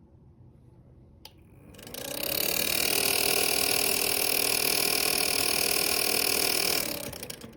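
Ceramic space heater's fan switched on with a click, its motor spinning up with a rising whine into a steady loud whir with air hiss, then winding down and stopping near the end.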